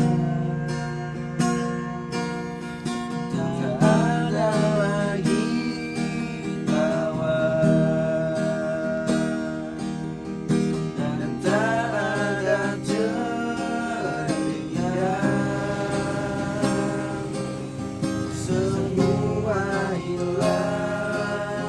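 Music: plucked strings with a male singing voice holding long, wavering, ornamented notes, the singing of a wayang dalang.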